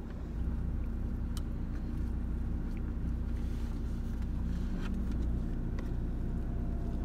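Car engine idling, heard from inside the cabin as a steady low rumble with a constant hum. There are a couple of faint clicks, one about a second and a half in and another near five seconds.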